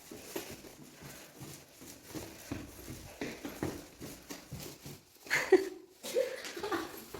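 A cat meowing once, loudly, about five seconds in, with its pitch falling; soft scattered knocks and rustles around it.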